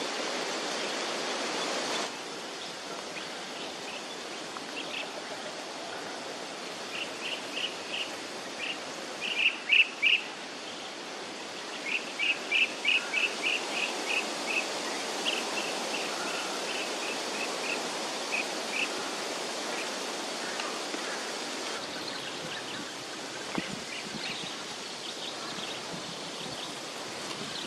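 A bird chirping in quick runs of short, high notes through the middle, over a steady rushing background noise of an outdoor setting.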